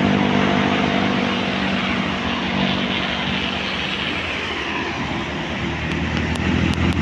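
A bus's diesel engine droning steadily as it passes, fading over the first couple of seconds and leaving a steady wash of tyre and traffic noise.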